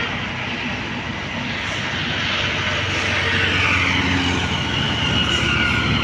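Road traffic passing close by: a heavy vehicle's engine running and getting louder as it approaches, with a high whine joining about halfway.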